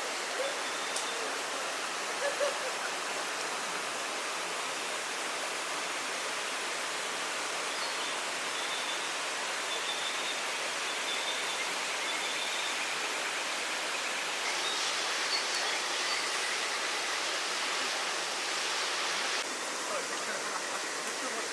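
Steady rushing noise with no clear source. It gets brighter for about five seconds in the second half, then drops back suddenly, and a few faint short high tones sound around the middle.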